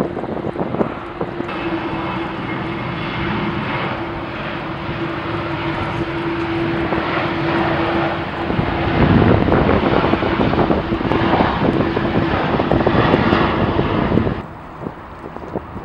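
Loud jet airliner engines passing close: a wide rushing noise with a steady tone running through it, loudest about nine seconds in. It drops away suddenly near the end, leaving wind noise on the microphone.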